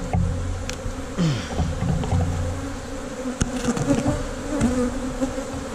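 Honey bees buzzing thickly around an open hive, single bees whining past close by with their pitch sliding up and down. The colony is stirred up as bridge comb between the frames is broken. A few sharp clicks sound now and then.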